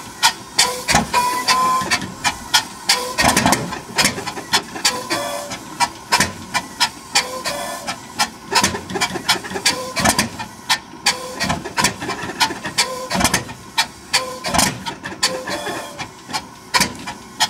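Kamov Ka-26's Vedeneyev M-14V-26 nine-cylinder radial engine coughing and firing unevenly, with sharp irregular pops several times a second over a steady hiss. This is a hard cold start on fouled spark plugs.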